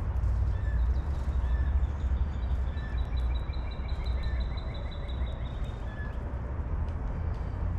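Wild birds calling over a steady low rumble. Short chirps repeat about once a second, and a rapid trill runs for about three seconds in the middle.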